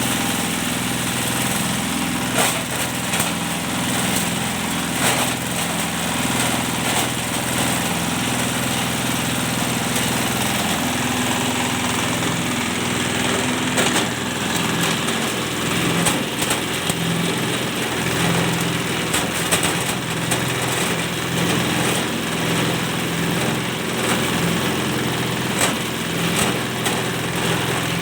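Cocopeat machine, a coconut-husk shredder, running steadily with a motor drone and scattered sharp knocks every few seconds.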